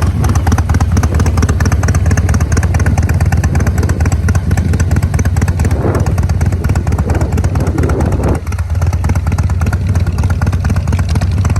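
Harley-Davidson Breakout V-twin engine running through its exhaust, a steady, loud, fast pulsing note. It swells twice in the middle, then settles back a little lower.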